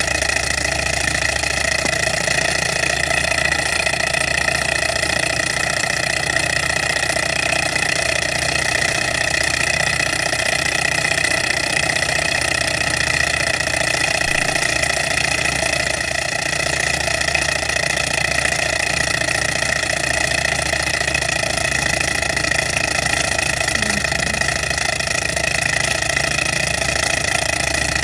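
Small Stirling hot air engine, heated by an alcohol burner, running steadily at speed: an even, fast mechanical whir from its spinning flywheel and pistons.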